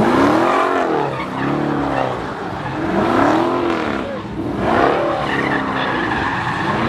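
A car doing donuts, its engine revving up and falling back in repeated swells about every two seconds, with tyres squealing and skidding on the pavement.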